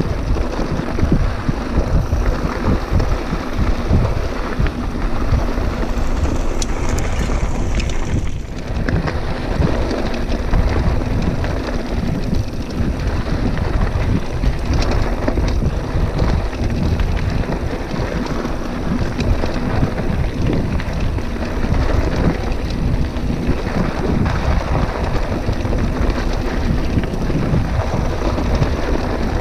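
Wind buffeting the microphone over the rumble and rattle of a mountain bike rolling over a rough dirt trail.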